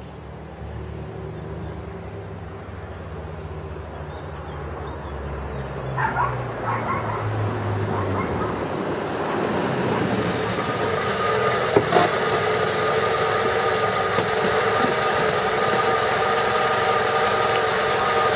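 Exhaust of a Nissan Primera P10 1.6's four-cylinder engine: a low hum at first, then growing steadily louder from about six seconds in, with higher steady tones joining from about ten seconds in. A few short sharp sounds come about six seconds in.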